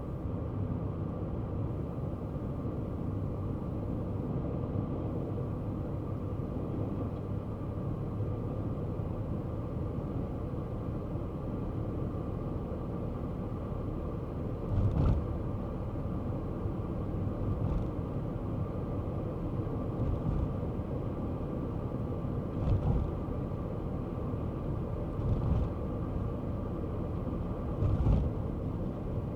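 Kei car driving along a road: steady engine and tyre rumble, with several short thumps in the second half.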